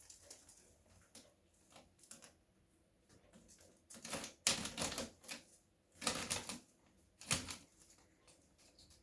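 A degu scratching rapidly at a bag of straw, rustling the bag. Faint scratching at first, then three loud bursts of scrabbling about halfway through.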